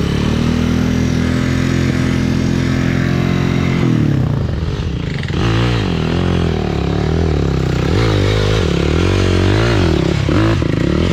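Honda CRF230F's air-cooled single-cylinder four-stroke engine running under way. It holds a steady speed at first, then from about five seconds in the revs rise and fall over and over as the throttle is opened and closed.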